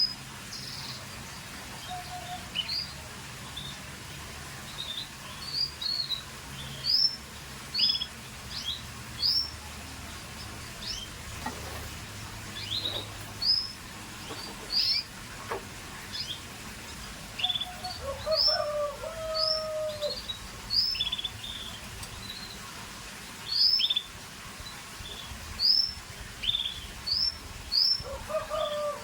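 Scotch Fancy canary chirping: short, high, sharp chirps repeated irregularly, roughly one a second, with a lower, drawn-out whistled note about two-thirds of the way through.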